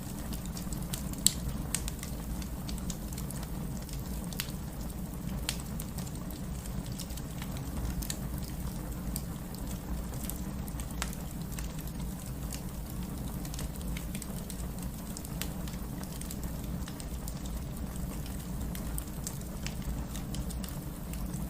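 Wood fire crackling in a fireplace, with scattered sharp pops, one louder than the rest about a second in, over a steady low rumble and a soft patter of rain.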